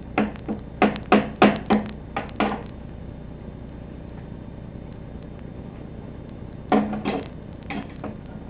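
Quick sharp knocks on a small table: a run of about eight in the first two and a half seconds, then four more from about seven seconds in.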